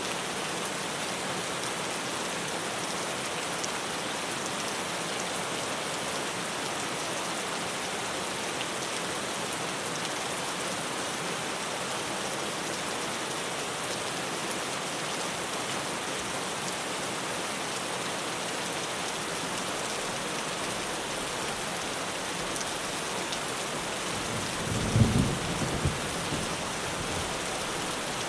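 Steady rain falling on a tin roof. Near the end, a peal of thunder breaks in with a low rumble that dies away over a couple of seconds.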